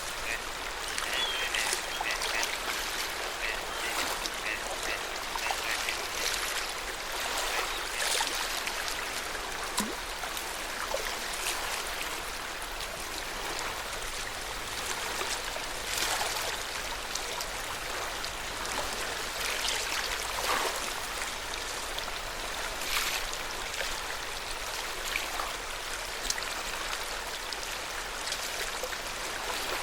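Small waves lapping and splashing at the lake shore in an irregular run of little splashes. A few short, repeated bird calls sound in the first few seconds.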